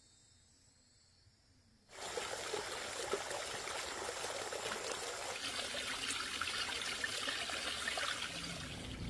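Water starting to run suddenly about two seconds in, then a steady pouring, trickling splash.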